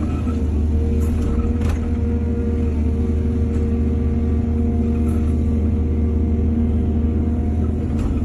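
Heavy diesel earthmoving machinery engine running steadily, with two short knocks about a second in.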